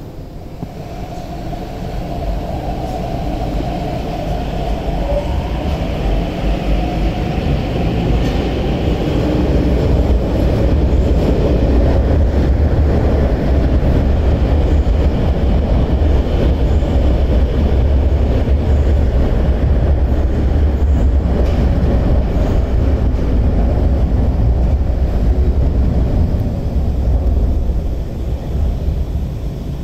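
Electric metro train running: a low rumble builds over the first ten seconds, with a rising whine from the motors partway through. It then holds steady and loud, and eases off near the end.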